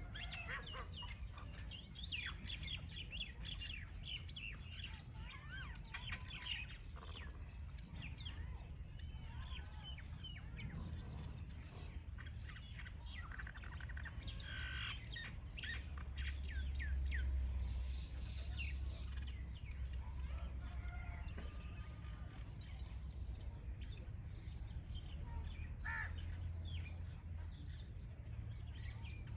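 Several small birds chirping and twittering in quick, overlapping bursts, over a steady low rumble that swells around the middle.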